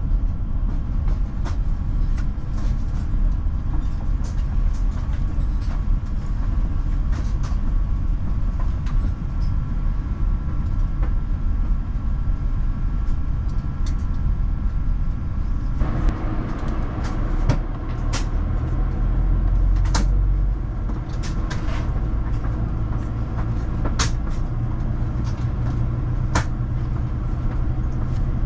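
Cabin noise of an Airbus A350-1000 on the ground: a deep steady rumble of its Rolls-Royce Trent XWB-97 engines and airframe, with scattered clicks and rattles of cabin fittings. About sixteen seconds in, a hiss joins higher up and the rumble grows stronger.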